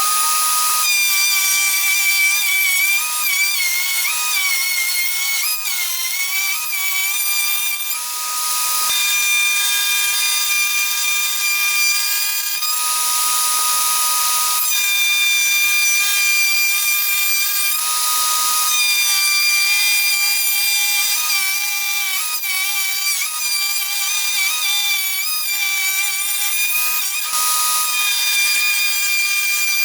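An electric power tool's motor running continuously with a high-pitched whine that wavers in pitch as the load changes, with four stretches of louder rushing noise as it works the wood.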